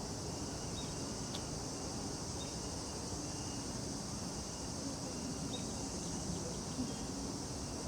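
Steady outdoor insect chorus: a constant high, even buzz of crickets, with faint short chirps repeating over it.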